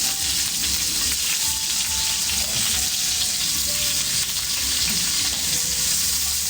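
Leaf-wrapped meat rolls sizzling steadily over a wood fire, a dense even hiss with fine crackle.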